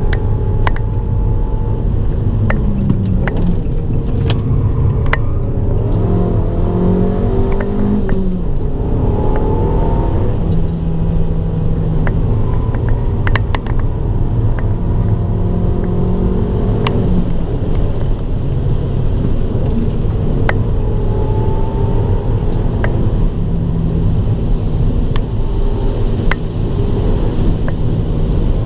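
Abarth 595 Turismo's turbocharged 1.4-litre four-cylinder engine driven hard on track, its revs rising and falling as it accelerates and shifts, with scattered sharp clicks and taps throughout.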